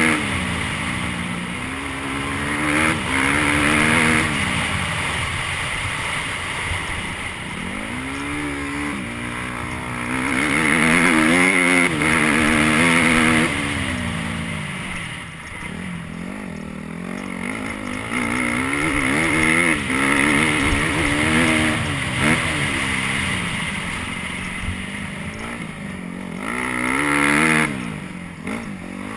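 Motocross dirt bike engine running hard around the track, its pitch climbing and dropping off again and again as the throttle is worked on and off.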